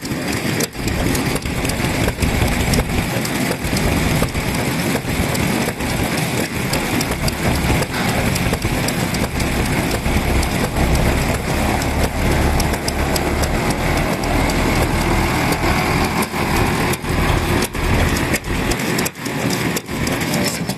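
Vintage Japanese stationary kerosene engines running, a steady, uneven chugging.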